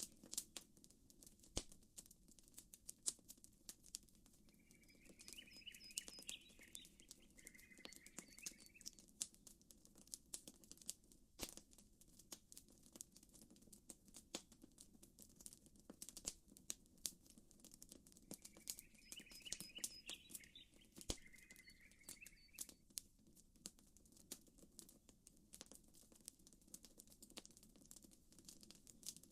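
Faint campfire crackling: irregular sharp pops and snaps from burning wood over a soft low background. A bird calls twice with the same short chirping phrase, once about five seconds in and again about nineteen seconds in.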